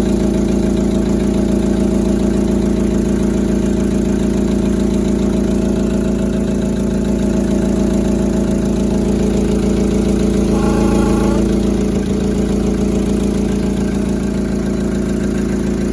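VW Polo Sedan's 1.6-litre four-cylinder petrol engine idling cold, with a steady rhythmic knock from the engine. A brief higher tone joins in about ten seconds in.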